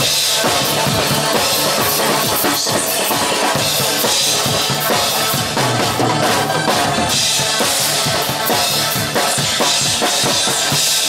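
Drum kit played busily along to a pop song's backing track, with rapid snare, bass drum and cymbal strokes over a steady bass line.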